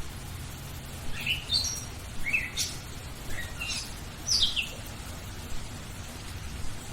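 A small songbird giving a quick series of short, high chirps over steady rain. The chirps start about a second in and stop about two seconds before the end.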